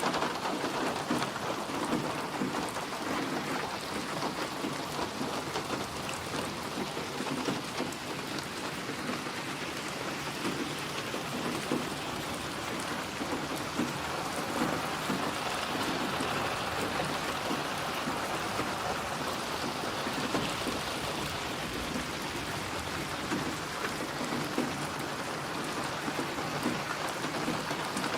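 Steady rain falling, an even hiss with many small drop patters throughout.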